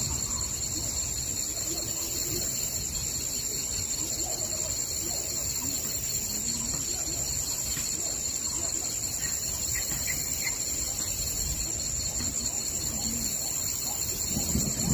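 Forest ambience: a steady high-pitched insect drone with scattered faint bird calls. A low rumble of thunder begins to build near the end.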